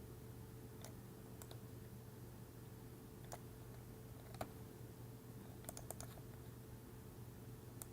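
Faint, scattered clicks of a computer mouse and keyboard during CAD work: a few single clicks, then a quick run of several about six seconds in, over a low steady hum.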